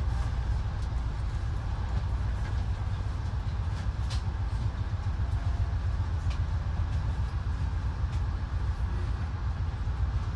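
Steady low rumble inside a passenger train coach, with a few faint clicks.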